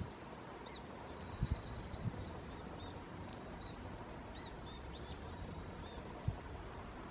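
A bird giving a scattered series of about a dozen short, high chirps over faint outdoor background noise, with a few soft low bumps.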